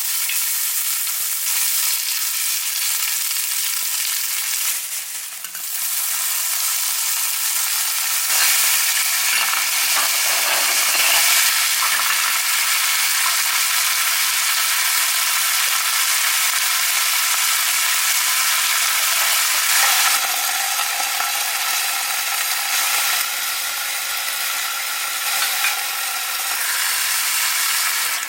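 Food sizzling in hot oil in a frying pan: a steady, dense hiss with no break, dipping briefly about five seconds in.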